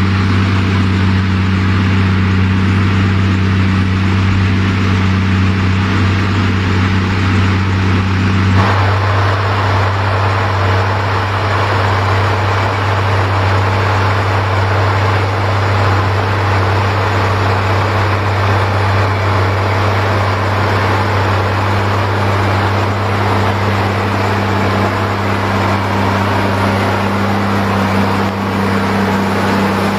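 New Holland TG285 tractor's diesel engine running steadily with a deep, even hum. About eight seconds in, the sound changes: one of the low tones drops out and a harsher, rougher noise comes up over it.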